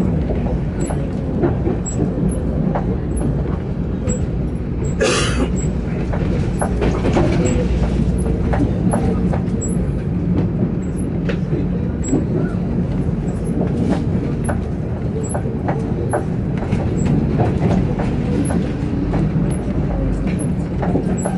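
Express passenger train running, heard from inside the carriage: a steady rumble with the wheels clicking and rattling over the track, and a short hiss about five seconds in.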